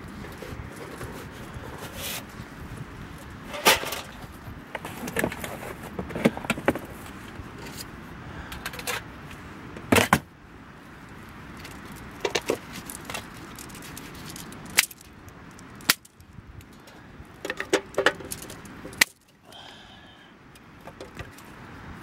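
Irregular sharp clinks and knocks, some in quick clusters, over a steady background hiss.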